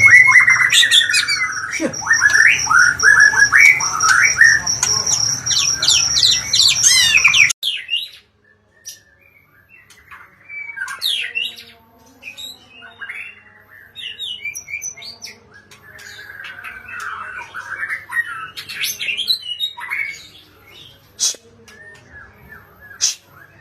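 Oriental magpie-robin (kacer) singing: loud, dense run of varied whistles with a rapid high trill, which cuts off abruptly after about seven seconds, followed by quieter, scattered song phrases and sharp clicks.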